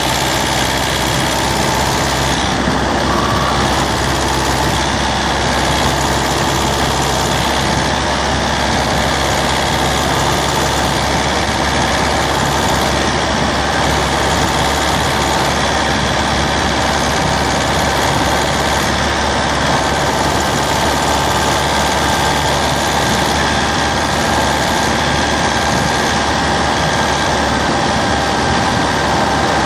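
Citroën C3's 1.4 HDi DV4TD four-cylinder turbodiesel engine running at a steady, unchanging speed, heard close up in the engine bay.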